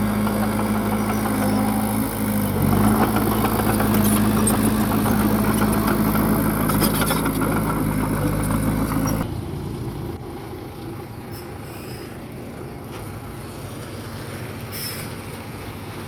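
Bulldozer's diesel engine running steadily, picking up slightly about three seconds in. It cuts off abruptly about nine seconds in to a quieter engine sound.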